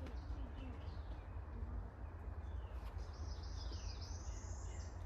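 A bird calling about three seconds in: a quick run of high notes that climbs in pitch for about two seconds, over a steady low rumble.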